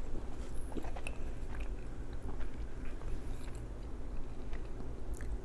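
Close-miked chewing of a soft pretzel dog, a pretzel-wrapped all-beef hot dog, with a few faint clicks.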